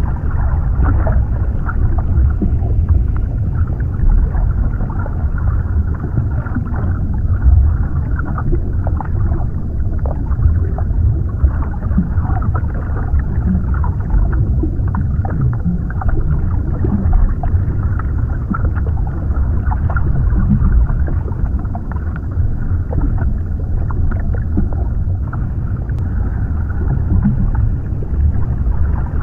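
Underwater ambience: a steady, muffled low rumble and wash of water heard from below the surface, with small scattered pops and clicks through it.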